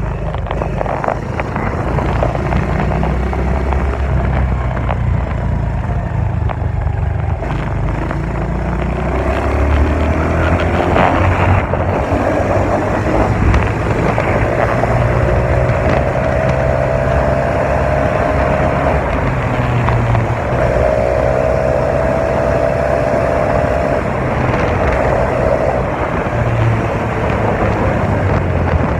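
Dirt bike engine running, its pitch rising and falling as the throttle changes.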